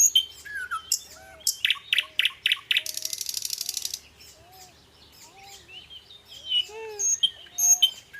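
Several birds chirping and calling outdoors. About three seconds in, one gives a fast, even trill lasting about a second, and softer low arched notes repeat throughout.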